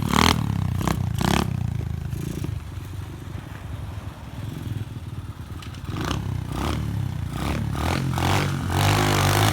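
SSR 125 pit bike's single-cylinder four-stroke engine running at low revs, getting louder near the end. Clattering and scraping knocks sound over it in the first second or so and again in the last few seconds.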